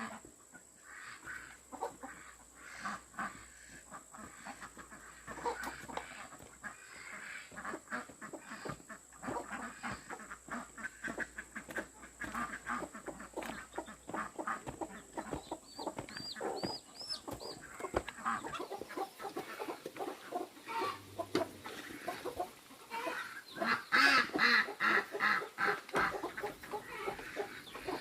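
Chickens clucking, many short calls overlapping, growing louder and busier near the end.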